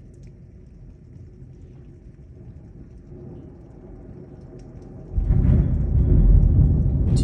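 Steady low rain-and-storm noise, then about five seconds in a sudden loud, deep rumble of thunder from a close lightning strike, heavy enough to shake the house.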